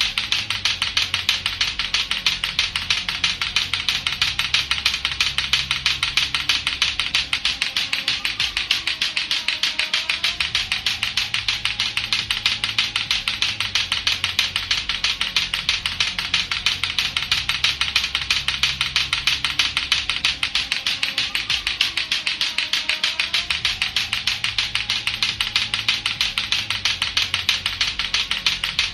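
Latto-latto clacker balls, two hard plastic balls on a string, knocking together in a fast, steady, unbroken clacking. A looping low beat with a slow gliding tone sits faintly underneath.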